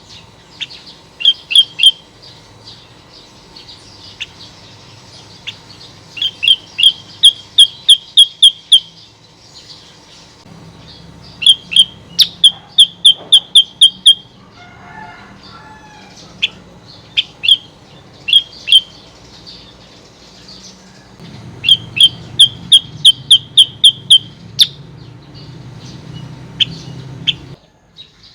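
Female kutilang sutra (a bulbul) calling: repeated bursts of quick, sharp, high chirps, about four a second, with short pauses between the bursts. A steady low hum runs underneath and stops shortly before the end.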